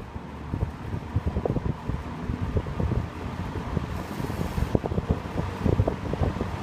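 1950s Sears Homart 20-inch box fan, with its Universal Electric reversible motor, running on high speed while blowing in the exhaust direction. Its strong airflow buffets the microphone with gusty wind noise over a steady faint hum.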